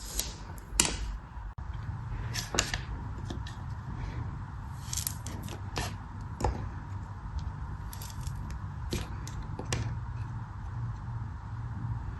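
Crisp cutting crunches: a knife slicing through a crumbly block of soap or packed sand, in short crackly clusters every second or two.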